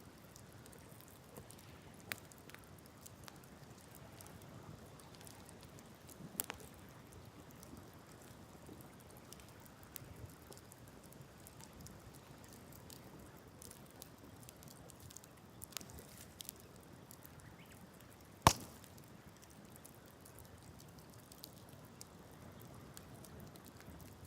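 Wood campfire crackling with scattered small pops and one sharp, loud crack about two-thirds of the way through.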